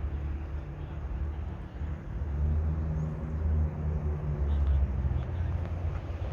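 Low engine rumble of a motor vehicle, getting louder about two seconds in.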